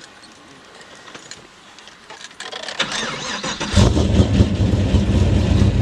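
Pontiac GTO's LS V8, fitted with Trick Flow cylinder heads and a Borla exhaust, being started: it cranks about three seconds in, catches just under a second later, then idles with a loud, deep rumble.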